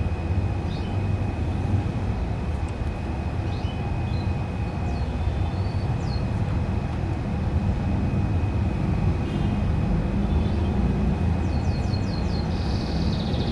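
A steady low rumble dominates, with faint short bird chirps scattered through it and a thin steady high tone. Near the end, a canary starts a rapid trill.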